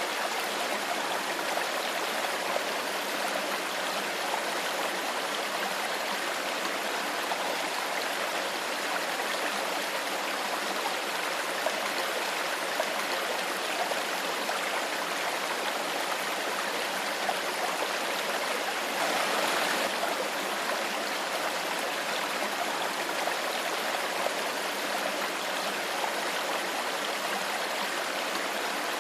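A clear stream flowing and babbling steadily over rocks, with a brief, slightly louder surge of water about two-thirds of the way in.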